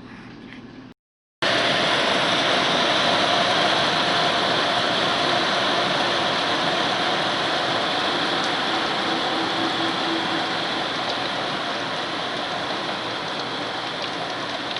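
Heavy rain pouring down in a steady downpour. It starts abruptly about a second and a half in, after a short faint stretch.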